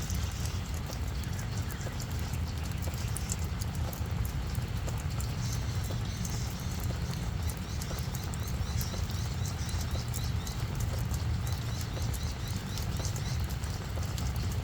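Rain falling on a flower bed, with many close individual drops ticking and tapping irregularly over a steady low rumble.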